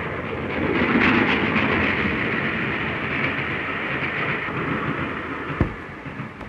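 A train running past on the rails, loudest about a second in and then slowly fading away. There is a single sharp click near the end.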